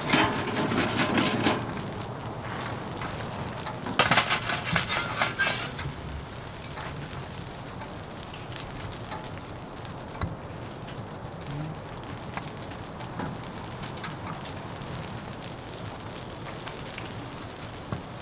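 Steady patter of precipitation on tent fabric, with scattered small ticks. Two louder crackling rustles come at the start and again about four seconds in.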